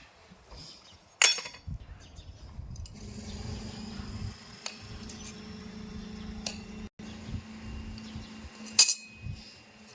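Metal farrier's tools clinking: two sharp clinks, one about a second in and one near the end, with a few lighter taps between, over a low steady hum.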